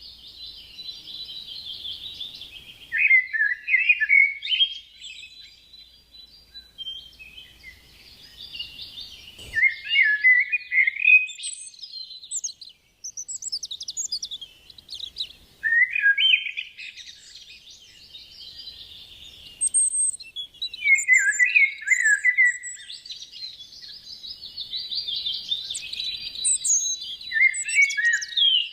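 Parrots chirping and chattering: a steady high twittering, broken every five or six seconds by a louder run of quick falling calls.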